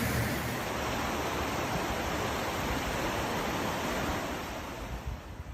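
Steady rushing of water, a continuous even noise that fades somewhat near the end.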